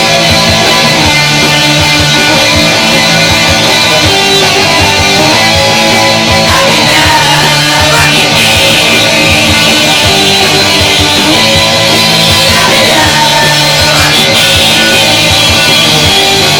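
Loud rock music from a band: electric guitar over a steady beat.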